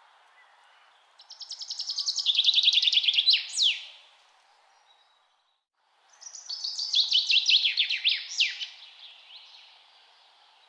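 A songbird singing twice, each song a fast run of rapid notes about two and a half seconds long that drops in pitch and ends in a few sharp down-slurred notes, over a faint steady hiss.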